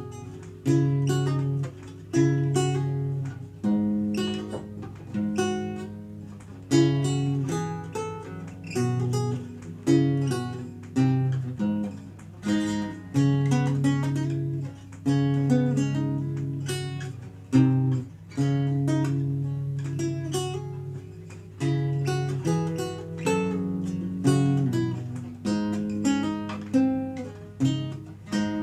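Renaissance lute played solo: plucked melody notes and chords over held bass notes, each note struck and then dying away.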